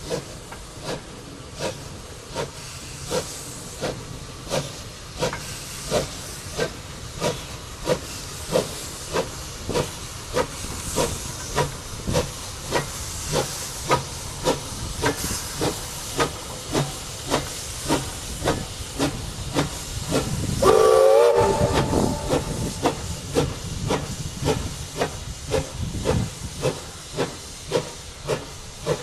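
Steam locomotive working under load: steady exhaust chuffs about every 0.6 seconds over a hiss of steam. About three quarters of the way in the whistle sounds once, loud, for a second or two.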